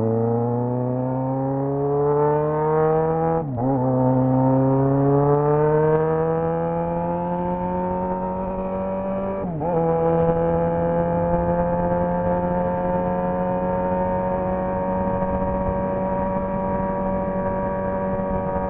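Yamaha XJ6 motorcycle's 600 cc inline-four engine accelerating through the gears. Its pitch rises, dips at an upshift about three and a half seconds in, rises again and dips at a second shift about halfway through. It then runs at a steady pitch.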